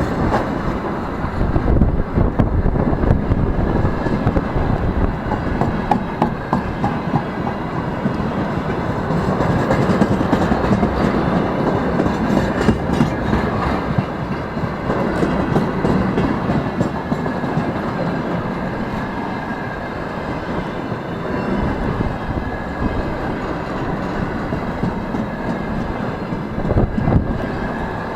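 Freight train's wagons rolling past with a steady rumble and a continual clickety-clack of wheels over rail joints.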